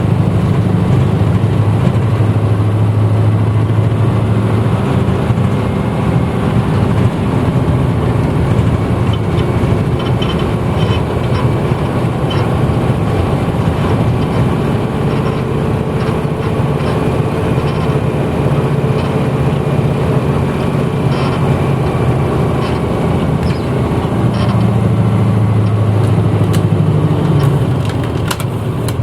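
A 1994 Hino Blue Ribbon city bus heard from inside while under way, its diesel engine droning steadily. The engine is heavier at the start, eases off through the middle with a few light cabin rattles, and pulls harder again near the end.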